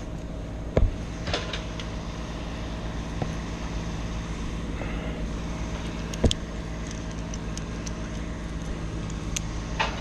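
An engine idling steadily in the background, a low even hum, with a few sharp clicks and knocks from close by.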